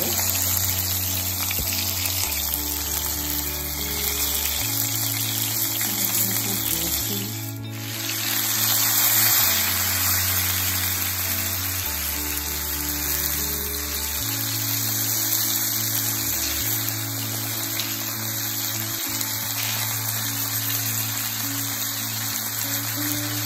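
Fish pieces sizzling as they shallow-fry in hot oil in a pan, under background music with slow, held bass notes.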